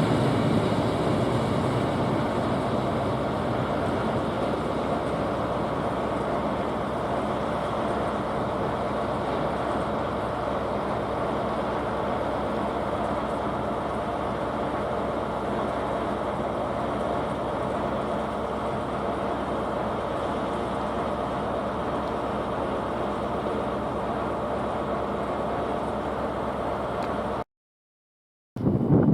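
Freight train passing: a diesel locomotive's engine is heard at the start, then a long, steady rumble and rattle of wagons rolling along the track, slowly fading. The sound drops to silence about a second and a half before the end.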